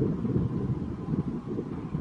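Wind buffeting the microphone: a low, gusty rumble that rises and falls irregularly.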